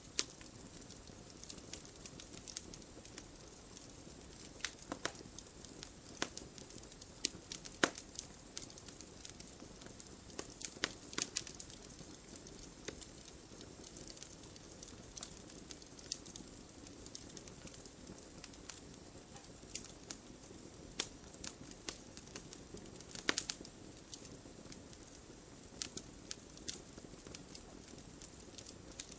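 Wood fire crackling: a steady low hiss with irregular sharp pops and snaps scattered throughout, a few of them louder.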